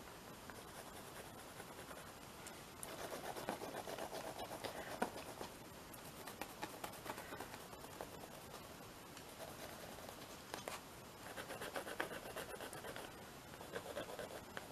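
Watercolour pencil scribbling on a paper journal page in quick back-and-forth strokes, in two spells: one about three seconds in and one near the end.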